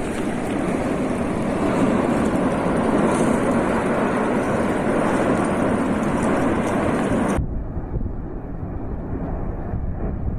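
Steady roar of an erupting volcano. About seven seconds in it cuts abruptly to a duller, slightly quieter roar.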